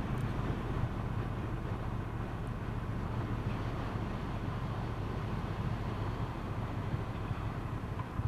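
Motorcycle engine running steadily on the move, a low even hum under road and wind noise on the microphone.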